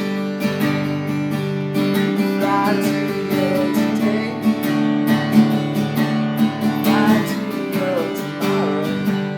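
Music: an instrumental passage of a blues song, with acoustic guitar strummed in a steady rhythm.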